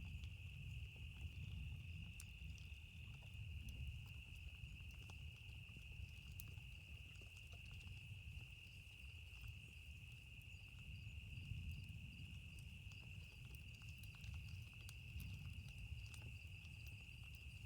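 Campfire crackling faintly in sparse small snaps over a low, wavering rumble, with a steady high-pitched drone throughout.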